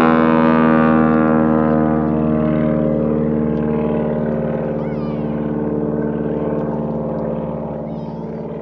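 P-51 Mustang's V-12 piston engine droning at a steady pitch as the fighter flies away after passing, fading slowly.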